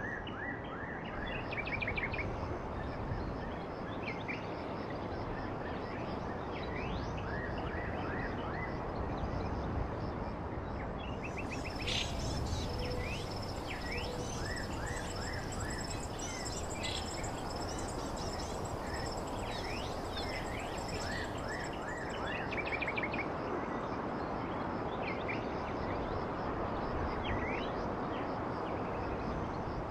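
Several birds chirping, with many short, quick high calls, some sweeping downward, over a steady rushing background hiss. From about a third of the way in until about two thirds, a continuous high trill joins them.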